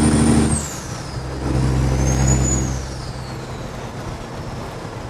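Kenworth W900's diesel engine with loud pipes pulling a loaded excavator trailer through the gears: the revs climb, drop at a shift about half a second in, climb again, and drop at another shift near the three-second mark before settling to a quieter, lower drone.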